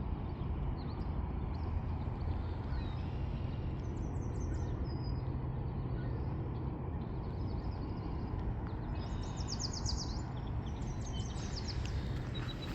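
Small birds singing in quick trills of rapidly repeated high notes, about four seconds in and again near the end, over a steady low outdoor rumble.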